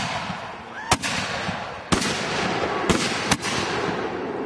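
Fused chain of 60-gram consumer firework mortars going off in succession: four sharp bangs about a second apart, the last two close together, with a steady hiss in between.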